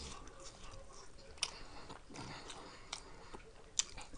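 A person chewing a mouthful of spicy noodles with the mouth close to the microphone: soft chewing with a few sharp wet mouth clicks.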